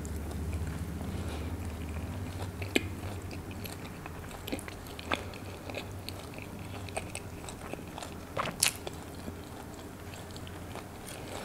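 Close-miked chewing of a mouthful of missi roti with chicken Afghani gravy: soft, wet mouth sounds with scattered small clicks. There is a sharper click about three seconds in and a couple more near the end.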